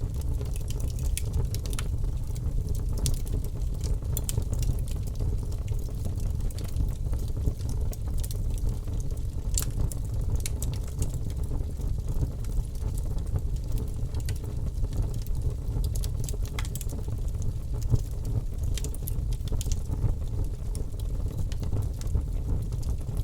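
Wood logs burning in a fireplace: a steady low rumble of the fire with frequent irregular sharp crackles and pops from the burning wood.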